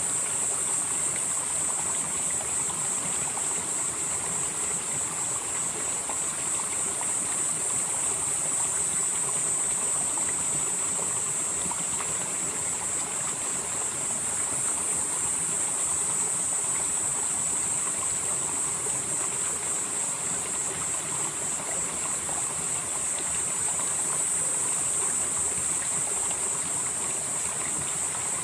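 Valley stream flowing steadily over rocks. A high hiss swells and fades about every ten seconds.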